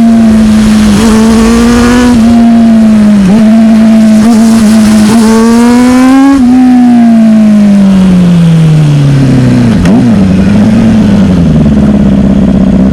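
Sport motorcycle engine at high revs, holding a steady pitch with a few brief dips. From about six seconds in the pitch falls steadily as it slows, then wavers with small blips and climbs again near the end.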